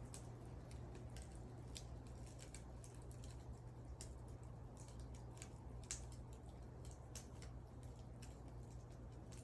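Wood fire crackling: irregular sharp pops and snaps from the burning wood, the loudest about six seconds in, over a steady low rumble.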